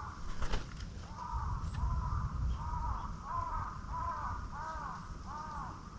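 A crow cawing: a series of about seven arched caws, roughly one and a half a second, starting about a second in. A low rumble runs beneath.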